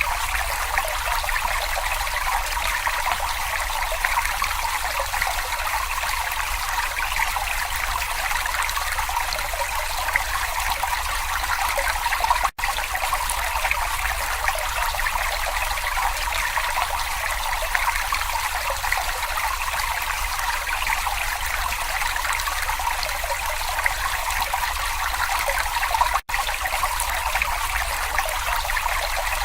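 Small brook babbling and trickling steadily over stones, cut by two split-second dropouts, one about halfway through and one near the end.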